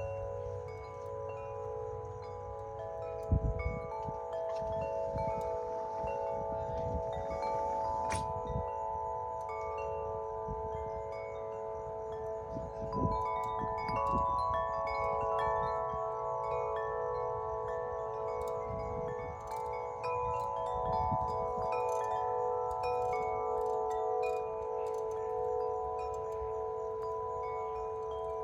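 Two large Corinthian Bells wind chimes, 50-inch and 36-inch sets of tuned aluminum tubes, ringing continuously in strong wind, with many deep, long-ringing tones overlapping. Gusts buffet the microphone with low rumbles a few times.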